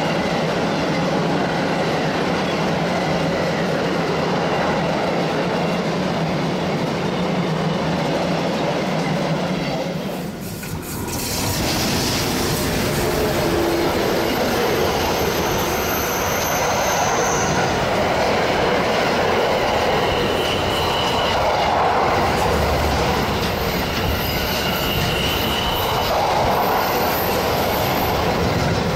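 Train running on the Semmering railway with continuous rail noise and clatter. The running dips briefly about ten seconds in. After that, thin high wheel squeals come and go, typical of wheels on the line's tight curves.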